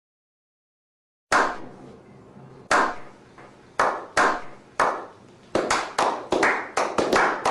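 Slow clap: single hand claps with a short echo, spaced more than a second apart at first and speeding up to about three a second near the end, about a dozen claps in all.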